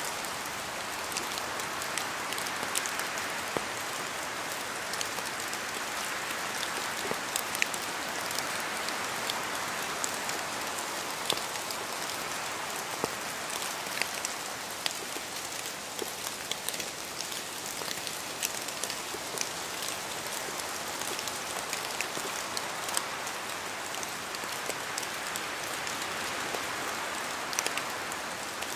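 Steady rain falling, with many individual drops ticking sharply and irregularly close by.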